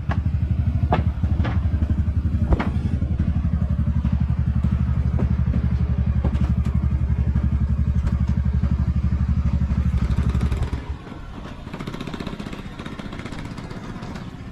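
Small engine running steadily at low revs, with a few sharp knocks in the first few seconds; the engine stops about eleven seconds in, leaving a quieter background hum.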